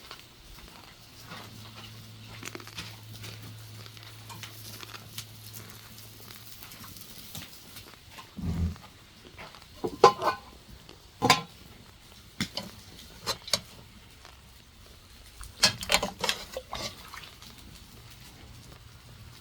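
Eating sounds: scattered clicks and knocks of utensils on dishes, with chewing and one heavier thump about halfway through.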